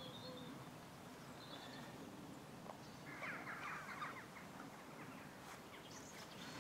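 Faint birdsong: a few short high chirps, and a quick song phrase about three seconds in, over quiet outdoor background noise.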